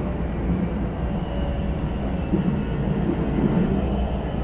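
Interior running sound of a Keisei 3100 series electric train with Toyo hybrid SiC-VVVF control: a steady rumble of wheels on rail, with a faint high whine that slowly falls in pitch.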